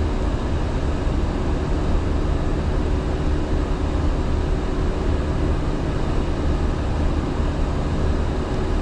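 Steady flight-deck noise of an Airbus A350-900 climbing after takeoff: a constant rush of airflow with a low, even engine drone underneath.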